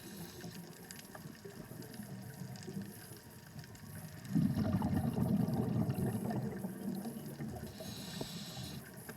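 Scuba diver's breathing heard underwater: a loud gurgling rush of exhaled bubbles from the regulator starts about four seconds in and fades over a few seconds, and a short hiss comes near the end.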